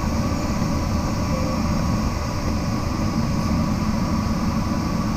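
Steady rush of airflow over a glider in flight, heard from inside the cockpit.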